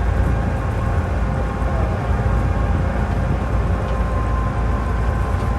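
Tourist train running along its track: a steady, even rumble with no break.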